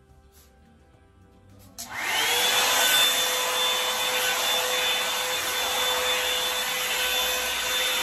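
Revlon hair dryer switched on about two seconds in: its motor spins up with a rising whine, then runs steadily with a rush of air before stopping suddenly.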